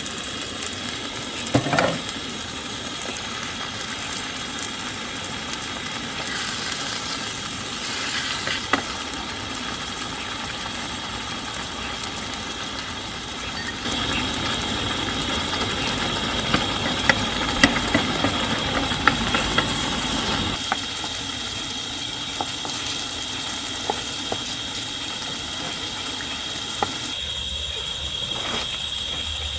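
Food frying and sizzling in a pan, with the clicks and scrapes of a utensil stirring it, busiest about halfway through. A steady high-pitched tone runs behind it.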